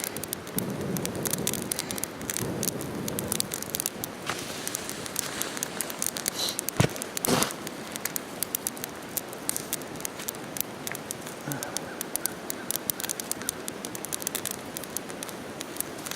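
Small campfire of leaves and kindling crackling with dense, irregular pops, and two sharp knocks about seven seconds in.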